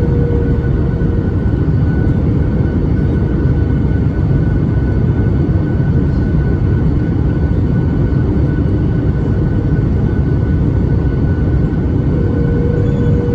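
Steady loud cabin noise aboard a Boeing 737 MAX 8, the rumble of its CFM LEAP-1B engines and the airflow, heard from an over-wing seat. A steady whine runs through it, and a lower hum fades out about a second in and comes back near the end.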